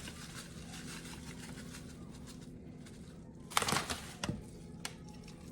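Food-handling noise in a quiet kitchen over a steady low hum: a short crinkly rustle a little past halfway through, then a couple of light clicks.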